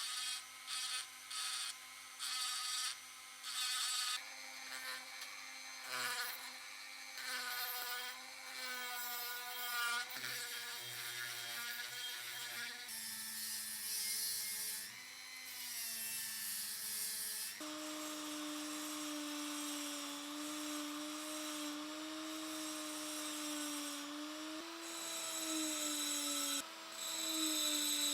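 Small high-speed power tool whining as it works metal. It is switched on and off in short bursts for the first few seconds, then runs continuously. Its pitch wavers and dips as the load on it changes.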